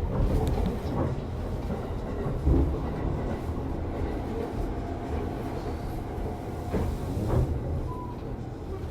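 Tobu 50050 series electric train heard from inside the car while running: a steady low rumble with faint steady tones and a few separate wheel knocks over rail joints.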